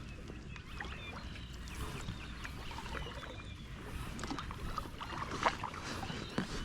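Kayak paddle dipping and splashing in lake water, with a few louder splashes about four to five and a half seconds in, over a steady low rumble.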